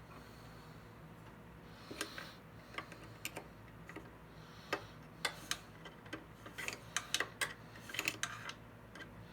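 Irregular sharp metal clicks and ticks of hand tools working the blade-clamping bolts on a thickness planer's cutterhead, starting about two seconds in and bunching into quick runs of clicks near the end.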